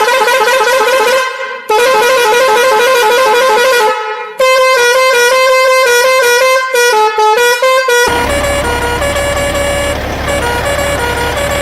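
A horn sounding in long, loud, wavering blasts that step up and down in pitch, broken by two short gaps. About eight seconds in it gives way to a denser, steady sound with a low hum underneath.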